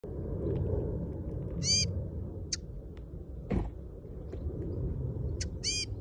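Small bird calling: two short harsh calls about four seconds apart, with a few thin high chips between them, over a low steady rumble. A single dull knock comes near the middle.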